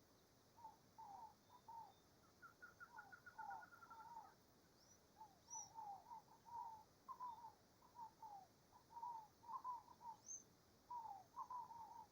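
Birds calling faintly: a run of short, falling notes repeated in quick clusters, with a rapid series of higher, evenly spaced notes about two seconds in and a few thin, high notes scattered through.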